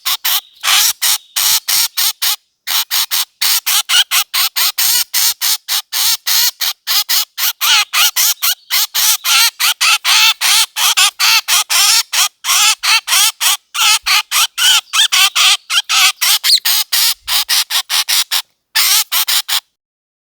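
A bird calling in a fast, almost unbroken series of short notes, about five or six a second, with two brief pauses, stopping shortly before the end.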